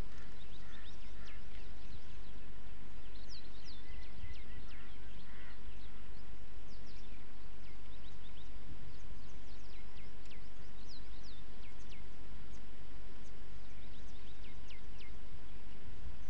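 Small birds calling: many short, quick chirps that slide downward, repeated throughout, over a steady low rumble.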